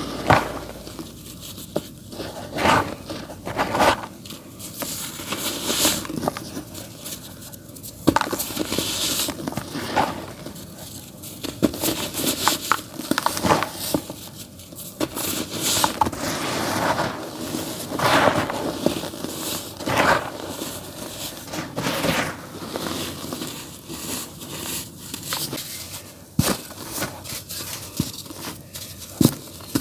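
Dry, earthy dirt crumbling in a tub, with irregular crunching and crackling.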